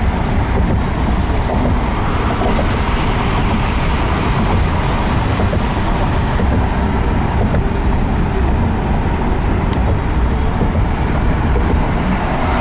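Steady road and engine noise inside a moving car on a freeway: a constant low rumble with tyre hiss and no distinct events.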